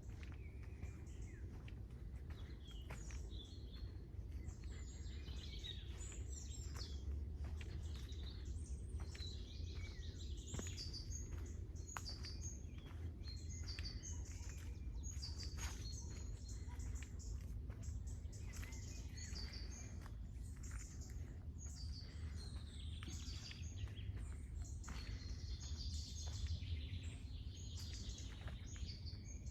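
Several songbirds chirping and singing, with many short calls overlapping, over a steady low rumble. Scattered soft clicks sound throughout.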